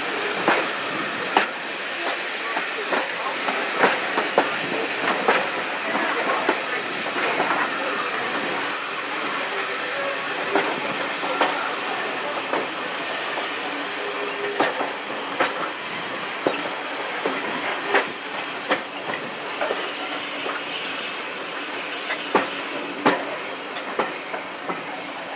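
Train running along the rails: a steady rumble and rush with irregular clicks and clatter of the wheels over rail joints.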